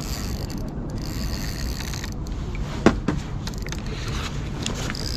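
Steady low rumble of wind and water around a fishing kayak, with one sharp knock a little over halfway through and a few faint clicks.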